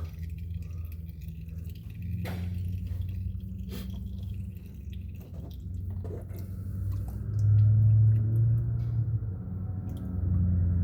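Engine oil from a Kawasaki Teryx4 draining into a drain pan, trickling and dripping, with a few light clicks. A steady low hum runs beneath it and swells briefly about three quarters of the way in.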